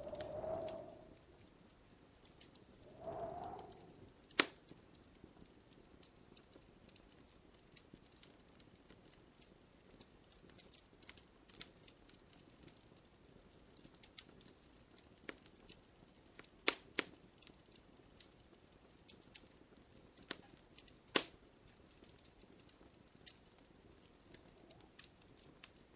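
Wood fire crackling in a fireplace: a steady scatter of small ticks with a few sharp, louder pops, the first about four seconds in and two more later on. Two short swelling sounds, each about a second long, come near the start.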